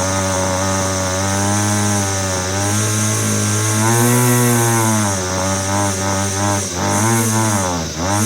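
Homelite string trimmer's small two-stroke engine running, revving up and down several times, with a brief sharp drop in revs near the end.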